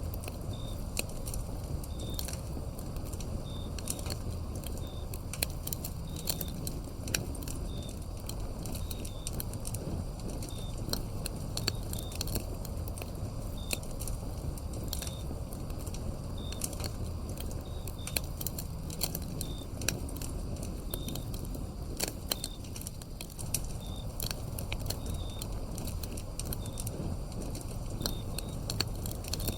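Wood fire burning, crackling with frequent sharp pops over a low rumble of flames. Crickets chirp in short chirps about once a second.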